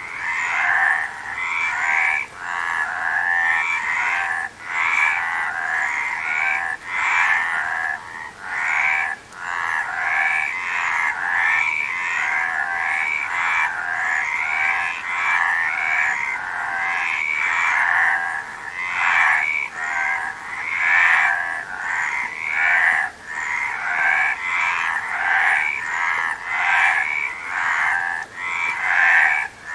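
Frogs croaking in a continuous chorus of many overlapping, repeated pulsed calls, with brief dips every few seconds.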